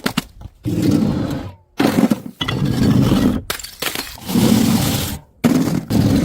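Glass bottles breaking and shattering, with crunching and tinkling shards, in about five short bursts cut hard one after another with brief silent gaps.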